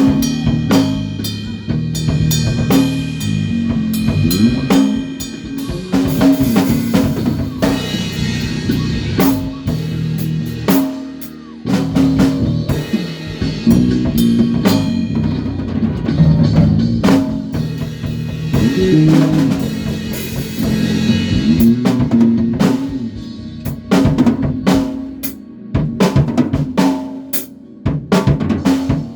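A rock band rehearsing: a drum kit with kick, snare and cymbals plays a steady groove over a bass line moving between low notes. The playing thins out briefly near the end.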